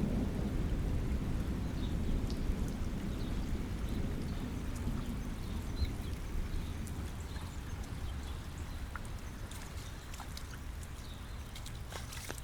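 Rain falling, with scattered drops ticking close by. A low rumble of distant thunder slowly fades away over the first half.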